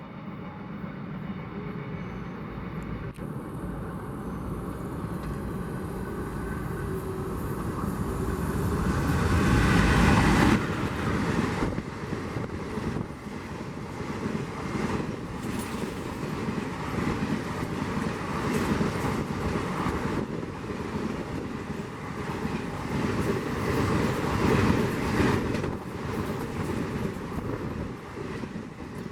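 An Indian Railways express train passing at speed. The locomotive's approach builds to its loudest point about ten seconds in and drops off sharply as it passes. The coaches then run by with a steady rushing clatter of wheels on the rails, which fades out at the end.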